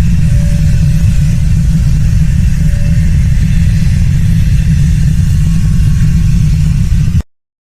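Strong wind buffeting the microphone: a loud, steady low rumble that cuts off abruptly near the end.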